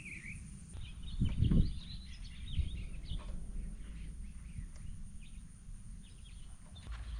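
Birds chirping over a steady low background hum, with a brief louder low rumble about a second and a half in.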